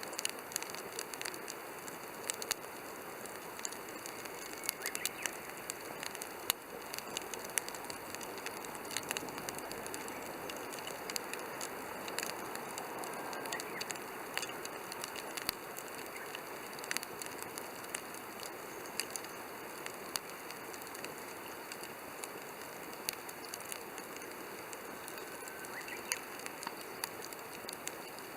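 Campfire burning in a Coleman Fire Disk fire pit, crackling with frequent sharp pops and snaps over a steady hiss.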